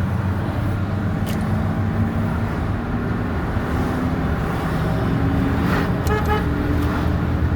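A vehicle's engine and road noise heard from inside the cab while driving, the engine note rising gradually as it accelerates.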